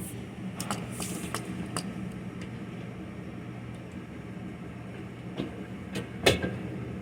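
Light clicks and knocks as a dishwasher's loosened kick plate is handled and pulled off, the loudest knock near the end, over a steady low hum.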